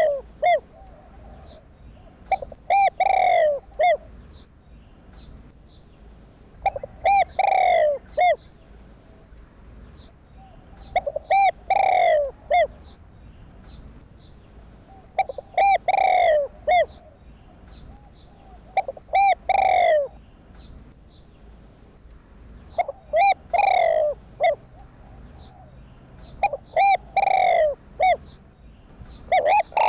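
Spotted dove cooing its repeated call: a phrase of short coos ending in a longer falling note, about every four seconds, with fainter coos between the phrases.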